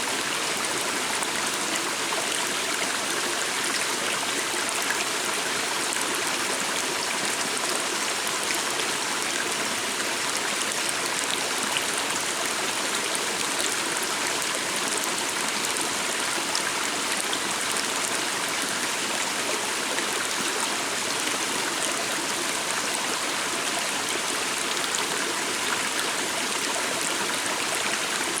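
A small forest stream running steadily, an even rush and babble of water.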